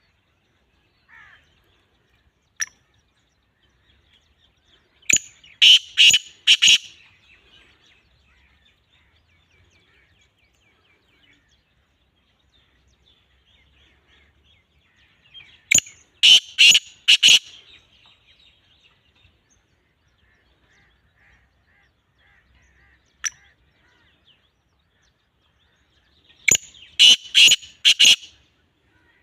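Black francolin calling three times, about ten seconds apart, each call a harsh run of four or five sharp notes lasting about a second and a half.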